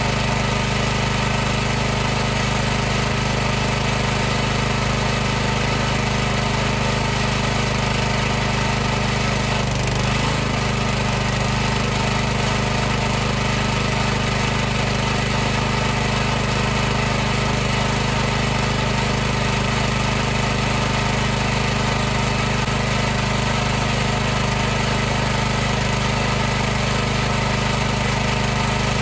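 High-pressure washer running steadily, its motor and pump giving an unbroken hum with a constant low pitch over an even hiss.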